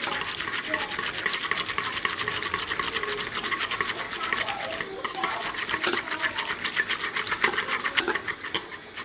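Handheld battery-powered frother running, its small motor whirring and the whisk rattling fast in a bowl as it whips coffee into a foam; it stops near the end.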